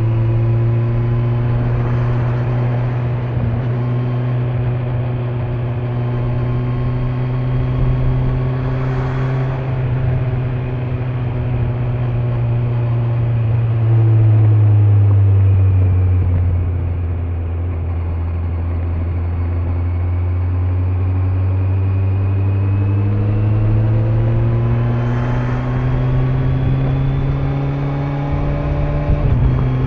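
Kawasaki Z900's inline-four engine with stock exhaust, under way at a steady cruise. About halfway through the revs drop off and hold low for several seconds, then climb steadily back up, with a brief dip near the end like a gear change.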